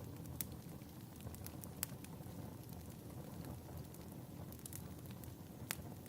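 Wood fire crackling in a fireplace: a low steady rumble of flames with scattered sharp pops, the loudest about two seconds in and again near the end.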